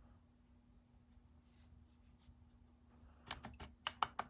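Soft rubbing of a paintbrush working watercolour into paper, then a quick run of about eight sharp taps and clicks near the end, likely the brush knocking against the palette or water jar. A faint steady hum sits underneath.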